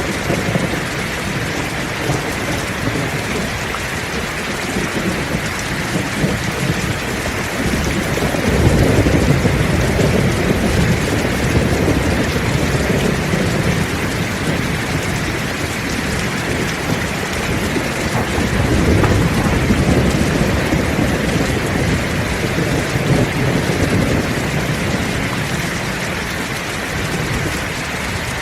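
Heavy rain falling steadily, with rolls of thunder rumbling in the low end, swelling about eight seconds in and again about eighteen seconds in.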